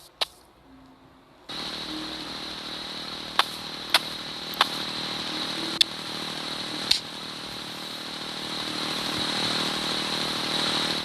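A small motorcycle engine running steadily, starting abruptly about a second and a half in, with a high whine and a few sharp clicks over it.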